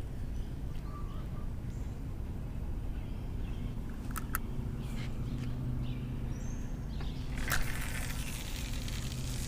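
Outdoor ambience: a steady low rumble with faint bird chirps, two sharp clicks about four seconds in and a short hiss near the end.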